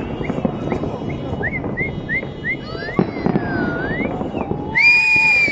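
Fireworks display going off: rumbling booms and crackling. Over them come a quick run of short rising whistles, then a longer gliding whistle, and near the end a loud, held whistle.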